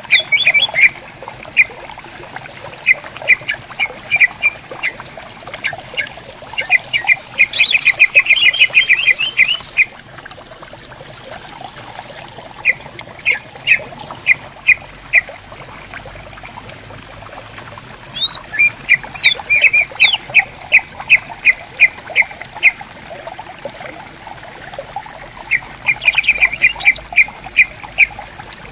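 Greater green leafbirds (cucak ijo) calling back and forth in bouts of sharp, rapidly repeated notes, one bout running into a fast trill, over the steady murmur of a shallow stream.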